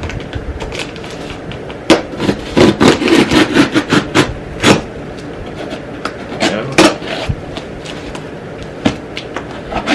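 Cardboard shipping box being cut open with a blade and handled: irregular scraping, tearing and knocking of cardboard and packing tape, with several sharp knocks.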